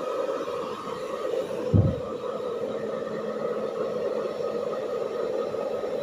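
Hair dryer running steadily, with a single low thump about two seconds in.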